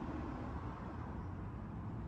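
Steady low rumbling background noise with no distinct events, having faded in just before.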